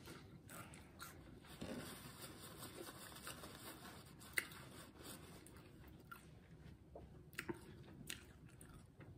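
Close-up chewing of a bitten fried vegetable spring roll, with faint crunching and a few sharp mouth clicks; the sharpest comes about halfway through.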